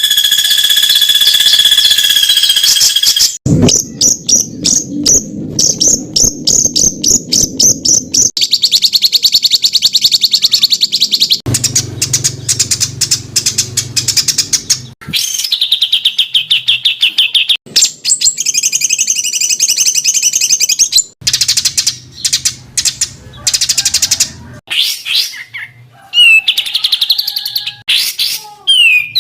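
Songbird tutor recordings: rapid, harsh runs of repeated chirping notes and trills. The song changes abruptly every few seconds from one bird's phrase to another's, with gliding whistles near the end.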